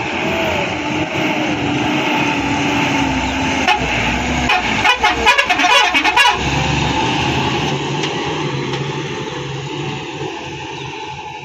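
Heavy diesel machinery engine running steadily, with a quick run of sharp clattering knocks about four to six seconds in.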